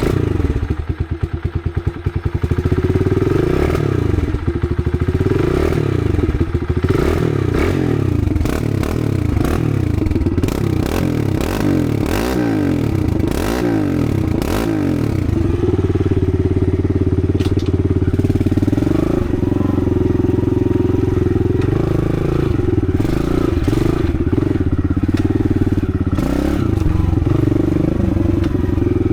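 Kawasaki KLX110 dirt bike's small single-cylinder four-stroke engine running. It has a rapid uneven chug in the first couple of seconds, then revs up and down over and over for the next dozen seconds, then holds a steadier note.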